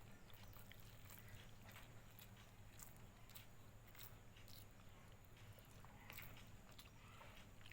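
Very faint chewing: scattered small clicks and smacks of a person eating, over a low steady hum.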